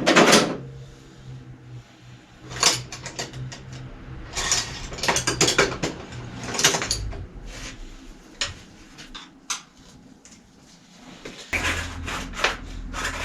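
Scattered clicks, clanks and knocks of tools and metal bicycle parts being handled at a workbench, with no steady rhythm, over a low hum.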